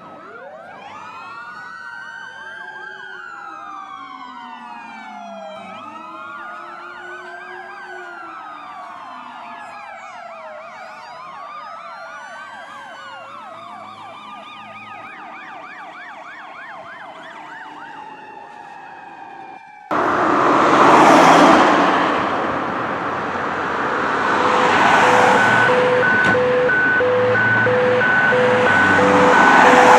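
Several electronic emergency-vehicle sirens wailing and yelping over one another in rising and falling glides. About twenty seconds in it cuts abruptly to much louder, rough heavy-vehicle noise that swells and fades. A few seconds later a steady pulsing two-note tone joins it.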